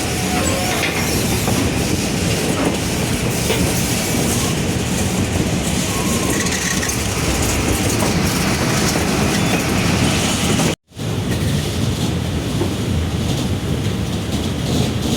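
Passenger train rolling along the track, heard from aboard a coach: a steady rumble and rattle of wheels on rail. The sound cuts out completely for an instant about eleven seconds in.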